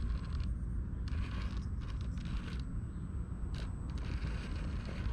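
Axial Capra RC rock crawler's motor and geared drivetrain creaking and grinding under load as it crawls up a rock.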